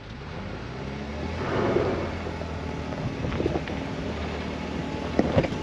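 Jeep engine running, its pitch rising in the first second or so as the vehicle gets under way, with a few knocks and rattles over a dirt trail.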